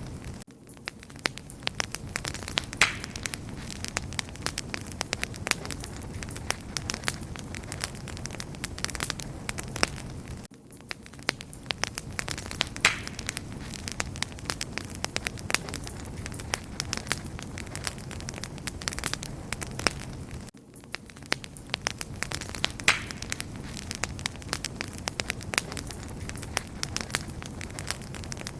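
Wood campfire burning with dense, irregular crackling and sharp pops over a low rumble. The same stretch repeats about every ten seconds, each time starting after a brief dip in level, with its loudest pop about two seconds into each repeat.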